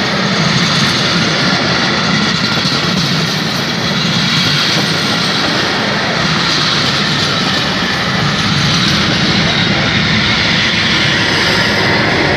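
Vintage passenger coaches of a historic train rolling past close by: a loud, steady noise of the wheels running on the rails.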